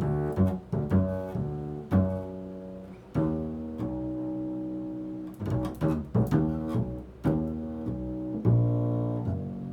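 Slow improvised instrumental music: low plucked string notes that ring on, struck singly or a few together, with a quicker run of notes around the middle.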